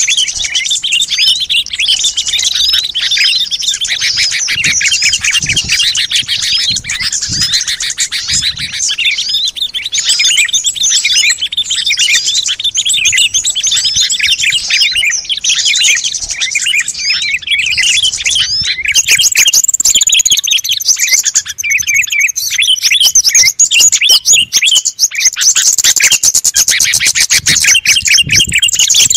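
A dense, noisy chorus of many small songbirds chirping and twittering over one another: a bird-lure recording played to call wild birds in. The calls get somewhat louder and higher a little past the halfway point.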